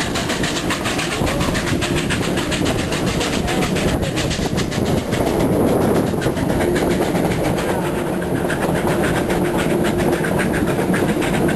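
A narrow-gauge railroad car rolling along the track, with a steady rumble and clatter of wheels on rail, heard from an open car. A steady low tone joins the rumble about halfway through.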